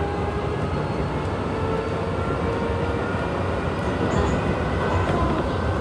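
Sanyo Electric Railway electric train running, heard from its front cab: a steady rumble of wheels on the rails under a motor whine that rises slowly in pitch as the train gathers speed.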